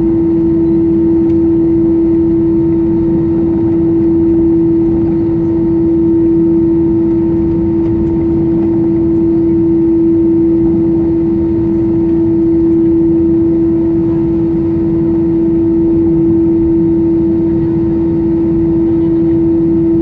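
Cabin noise of an Airbus A320-214 with its CFM56 engines running at a steady setting: a constant humming drone over a low rumble, heard from inside the cabin.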